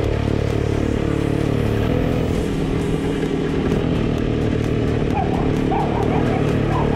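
Two-stroke single-cylinder engines of WSK 125 motorcycles running at road speed, the rider's own bike loudest, the engine pitch shifting a little with the throttle.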